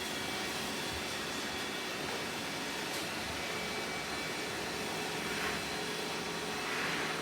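Robot vacuum cleaner running steadily, its suction fan giving an even rushing hum with a faint high whine, with two brief louder swishes near the end.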